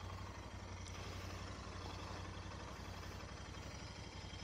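Motorcycle engine idling steadily, a low, even hum.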